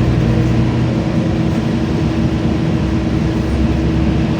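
LiAZ-5292 city bus running, heard from inside the passenger cabin: a steady engine and drivetrain hum with a constant higher tone over it.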